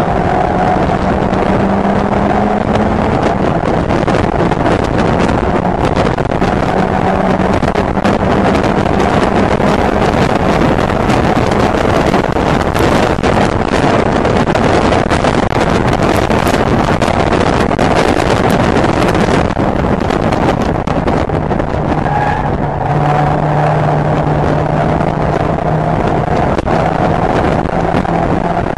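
Mazda MX-5 race car's engine running hard at high revs, heard from inside the open cockpit, mixed with heavy wind and road noise.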